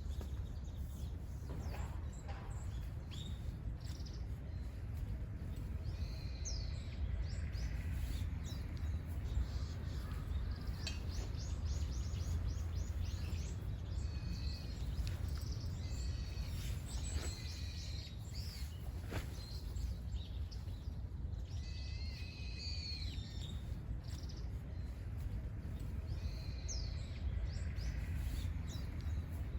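Wild birds singing and calling: repeated chirps and short warbled phrases from several birds, over a steady low rumble, with a few faint knocks.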